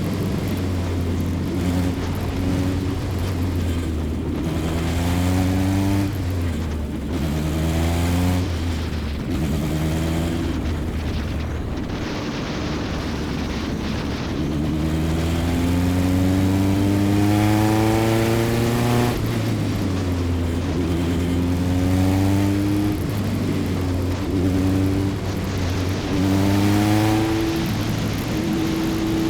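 Single-seater race car engine heard from on board, accelerating in repeated short pulls and lifting off, with a longer rising pull through the middle that drops away sharply about nineteen seconds in, over a steady low drone.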